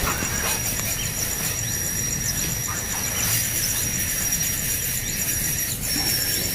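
Hungry nestling birds giving short begging calls, over a steady high insect whine with a pulsing trill above it and a low rumble.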